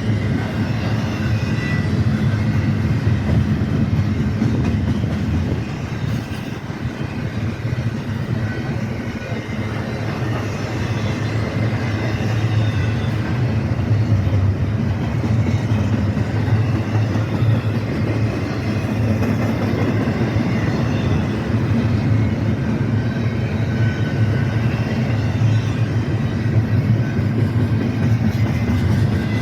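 BNSF intermodal freight train's cars rolling past, a steady rail rumble of wheels on track.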